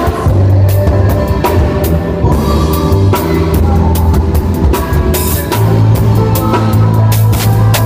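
Live band playing an instrumental passage: drum kit with kick and snare on a steady beat over a held bass line and sustained chords.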